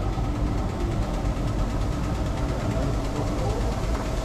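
Steady low engine rumble of a running rail vehicle, with a few faint steady tones over it.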